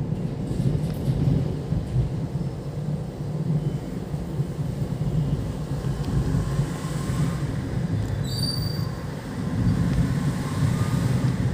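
Steady low road and engine rumble heard from inside a moving Hyundai Xcent, with a brief high-pitched squeal about eight seconds in.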